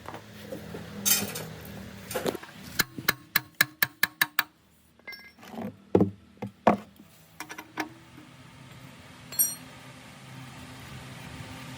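Metal tools clicking and clinking against hard parts: a quick run of about eight sharp clicks, then a few separate knocks and a short ringing clink.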